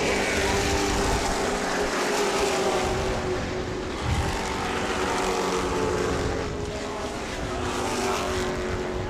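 A field of Pro Truck race trucks' engines running at racing speed on a short oval: a steady drone whose pitch rises and falls slightly, with a brief low thump about four seconds in.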